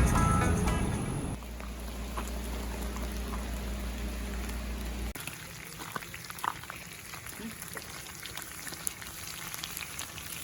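Guitar music fading out in the first second or so, then a steady sizzling hiss with scattered small pops and crackles: food frying over a campfire.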